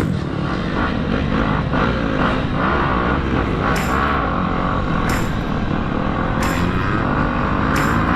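Motocross dirt bike engine running at varying revs, its pitch rising and falling.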